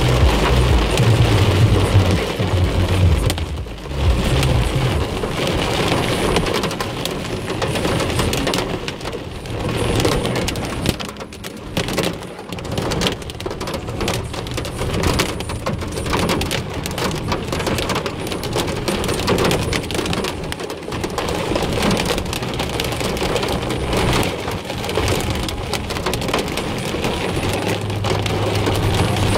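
Heavy rain drumming on a car's body and windscreen as a dense, fast patter of impacts. A low hum of the car's engine and tyres comes through at the start and again near the end.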